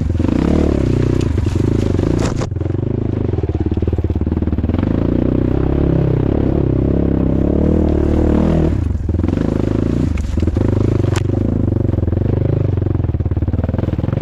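Off-road motorcycle engine running under load as the bike rides along a trail. The throttle rises and falls, and the engine note drops off briefly about two and a half seconds in and again about nine seconds in.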